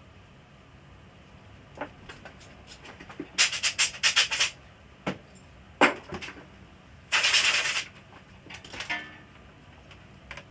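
Handling noises from working on an LCD TV's parts: scattered sharp clicks and knocks, a quick run of clatter, and one harsh rasping noise lasting under a second just past the middle.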